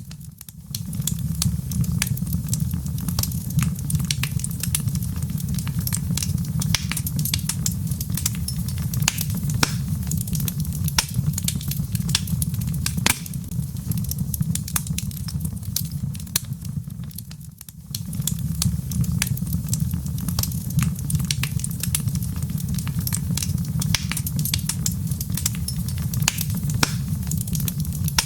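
Log fire burning in a fireplace: frequent sharp crackles and pops of the burning wood over a steady low rumble of the flames. The sound dips briefly about half a second in and again at about 17 seconds.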